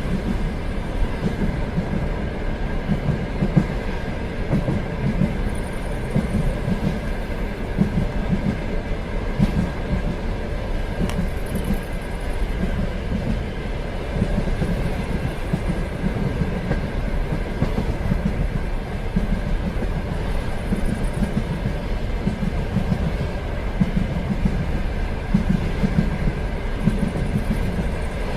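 A moving train running steadily along the track: a continuous rumble with uneven low pulses from the wheels on the rails and a faint steady whine above it.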